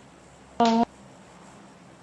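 A short break in unaccompanied singing: faint steady background noise, with one brief sung note just over half a second in.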